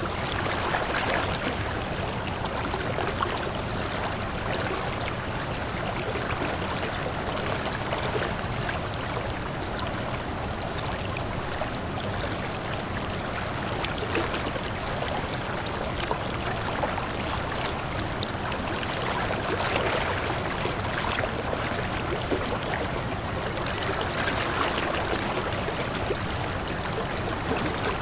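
A stream of water running steadily.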